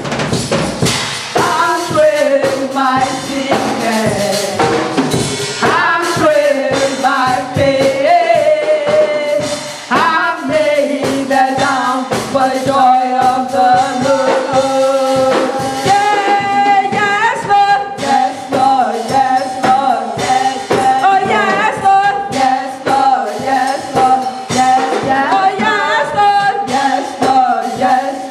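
Choir singing a gospel worship song over instrumental accompaniment, with percussion keeping a steady beat. From about eleven seconds in, a long note is held steadily.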